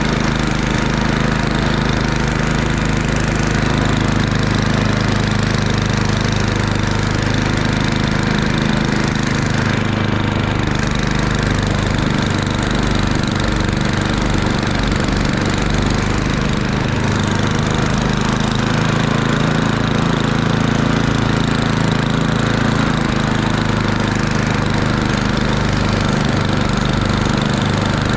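Murray Ultra 8/27 snowblower's 8 hp engine running steadily under throttle.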